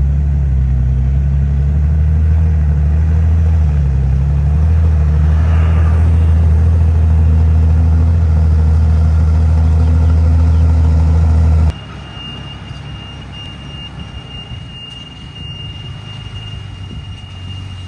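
Heavy diesel engine of earthmoving machinery running steadily close by, a deep low hum. About twelve seconds in it cuts off abruptly to a quieter engine rumble with a thin, high, steady tone over it.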